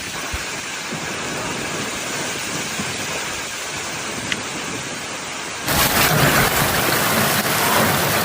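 Heavy rain pouring down as a steady hiss. About two-thirds of the way in it cuts suddenly to a louder, fuller downpour.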